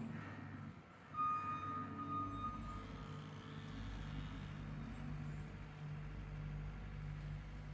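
Tractor engine running steadily while driving a power rake over rough ground. About a second in, a high steady tone sounds for about a second and a half.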